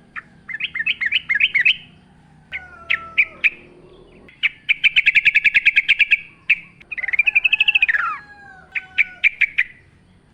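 Yellow-vented bulbul calling: bubbly chirping phrases, a fast, even trill of about a dozen notes a second from about four and a half seconds in, a falling chattering phrase near eight seconds, then quick sharp chirps.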